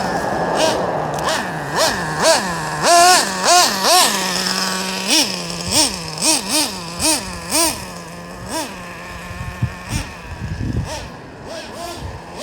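Traxxas Revo's 3.3 nitro engine running, throttled up in a string of short revs that drop back to a steady idle each time. The biggest revs come about three to four seconds in, followed by quicker, smaller blips.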